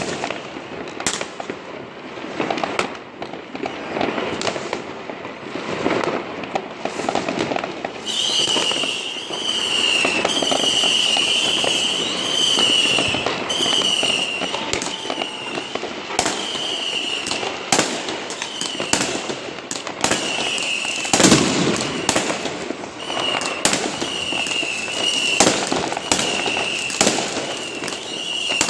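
Fireworks: a dense crackle of firecrackers with many sharp bangs of exploding rockets and bangers, some close and loud. About eight seconds in, a high warbling alarm tone starts and keeps cycling under the bangs.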